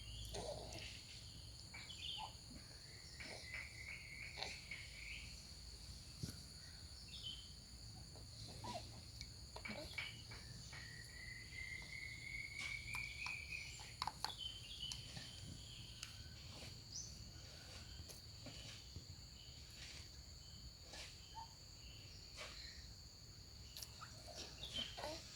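Songbirds chirping softly, with two slow rising trills, over a steady high-pitched ringing hum and scattered small clicks.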